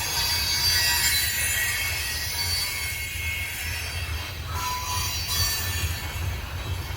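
Freight train rolling slowly into a rail yard, its steel wheels squealing against the rails in several thin, high tones that come and go over a steady low rumble.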